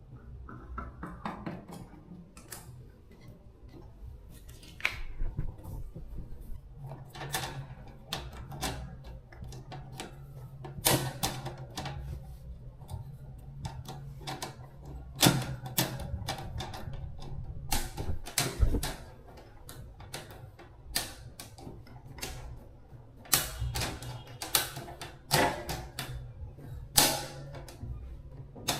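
Irregular clicking and tapping of small tools and metal parts being handled during repair work, over a steady low hum.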